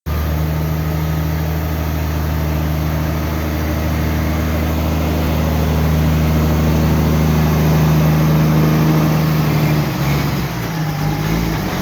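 Truck engine running at a steady speed with a low, even note, which breaks up and changes about ten seconds in.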